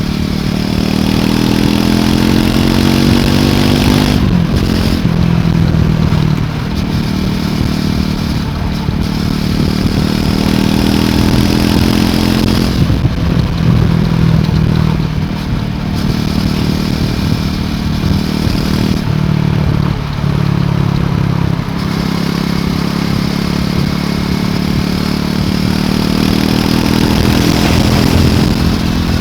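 Triumph Scrambler 400 X's single-cylinder engine through its stock exhaust while riding, its pitch climbing and then dropping several times as it accelerates and eases off, first about four seconds in.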